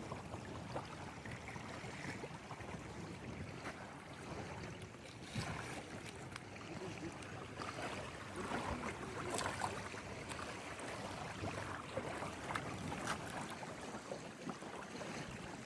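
Steady lake-side water and wind noise, with a few light clicks and knocks scattered through it.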